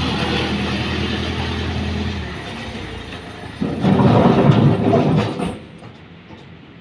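Heavy diesel machinery running with a steady engine hum, then a loud rattling rumble about three and a half seconds in that lasts under two seconds and cuts off sharply.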